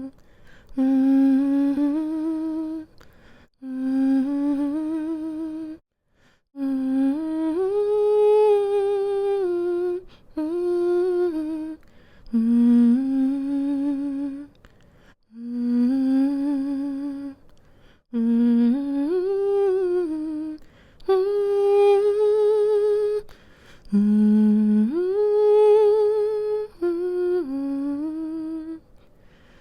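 A woman humming a slow, gentle lullaby melody with closed lips, in phrases of one to three seconds broken by short pauses for breath, the pitch gliding between notes.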